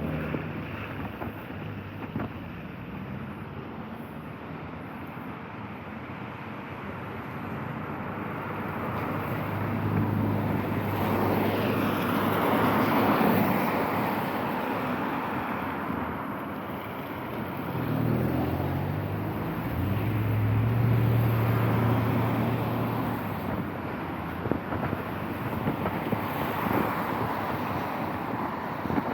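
Cars passing on a wet street: tyre hiss swells and fades twice, each time with an engine pulling away and rising in pitch, about a third of the way in and again past halfway.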